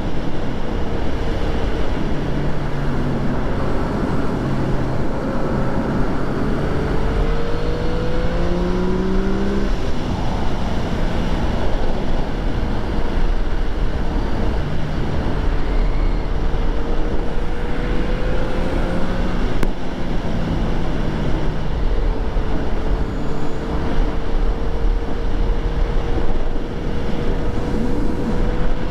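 Yamaha FZ-09's 847 cc inline-three under way on the road. The revs climb and drop back at gear changes, about ten and twenty seconds in, then hold fairly steady, over a constant rush of wind and road noise.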